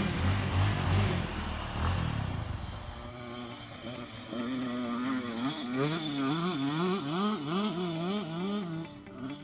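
Two-stroke motocross bike engine: a loud pass that fades over the first few seconds, then the engine revving up and down in quick succession, about twice a second.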